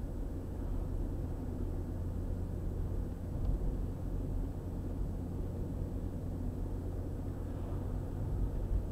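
A car's steady low road and engine rumble while driving along a highway.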